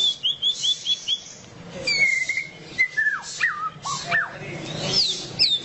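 White-rumped shama singing: a quick run of about six short repeated whistles in the first second, then a string of loud slurred whistles that fall and rise in pitch.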